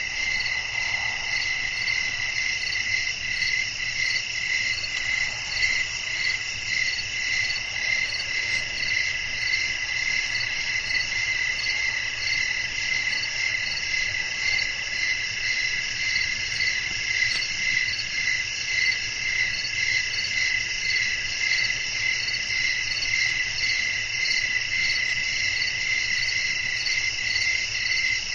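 A chorus of crickets trilling steadily, several insects at different pitches overlapping, the higher ones with a fast pulsing beat.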